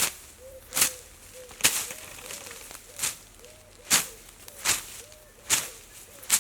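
Footsteps swishing through knee-high grass at a walking pace, about one step every 0.8 seconds. Faint short chirps repeat between the steps.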